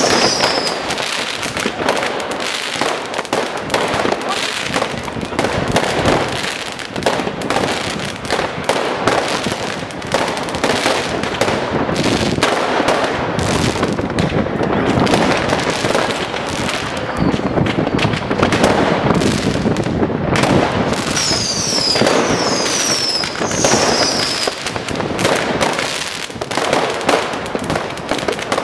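A dense fireworks barrage: continuous firecracker bangs and crackling, overlapping with no pause. A run of three short whistles comes about three-quarters of the way through.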